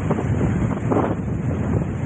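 Strong wind buffeting the microphone: a loud, low, rumbling noise with gusts swelling briefly at the start and again about a second in.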